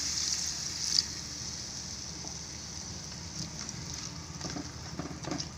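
Water poured into a hot kadai of crab and masala sizzling, loudest at the start and dying down over the first second or two, with a sharp click about a second in; a fainter sizzle carries on after.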